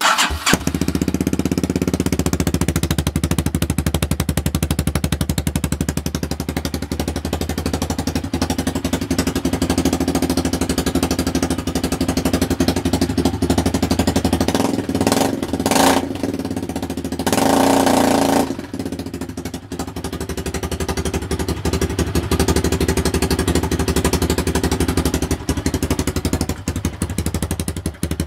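Minsk X250 motorcycle's 166FMM single-cylinder four-stroke engine running at idle, coming in abruptly and then holding a steady, even beat. It is revved briefly twice, about 15 and 17 seconds in, the second rev lasting a little over a second, before settling back to idle.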